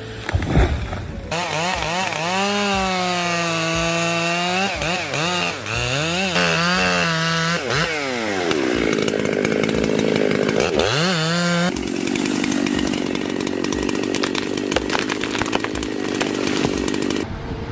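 A saw engine revving, its pitch repeatedly rising and falling, then running steadily under load as it cuts through wood.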